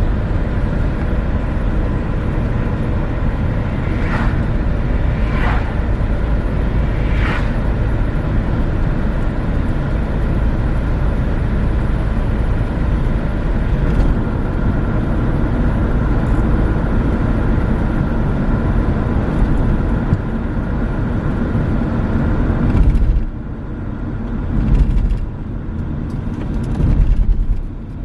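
Renault Megane III driving: steady engine and road noise. It drops suddenly about 23 seconds in, then swells twice near the end as the car eases off and pulls again; three short high chirps come early on top of the noise.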